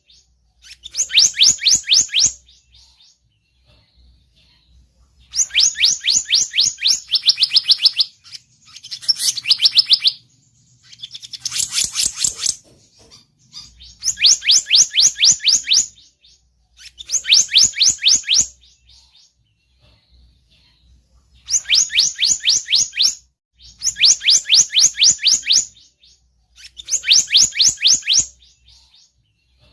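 Bird-lure recording of the selendang biru's call: bursts of rapid, high chirping notes, each burst lasting about two seconds and repeating every few seconds, with a louder, differently shaped burst about 12 seconds in.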